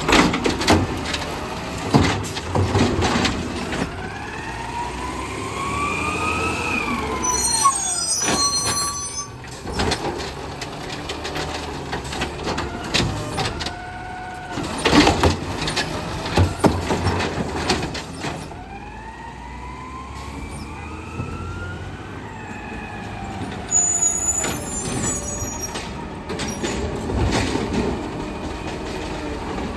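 Garbage truck collecting carts with its automated arm, twice in a row: the engine revs and the hydraulics whine up and back down as each cart is lifted and dumped, with loud bangs as the cart slams against the hopper and short hisses of air. Engine noise runs underneath throughout.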